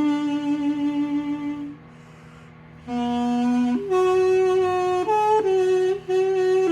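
Armenian duduk playing a slow melody of held, gently wavering notes over the steady low hum of a running microwave oven, which serves as the drone. About two seconds in the duduk stops for about a second, leaving only the microwave hum, then comes back in.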